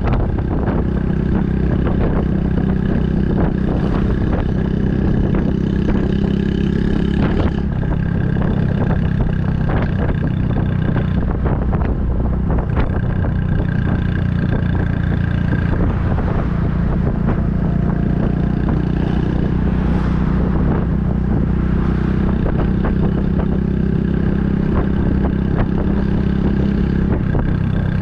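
Honda Super Cub 110's single-cylinder four-stroke engine running at a steady pace through an aftermarket Kitaco mini Cabton muffler, a steady exhaust note while riding.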